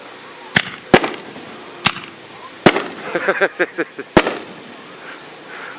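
Fireworks exploding: five sharp bangs over about four seconds, with a quick run of crackling pops between the fourth and fifth.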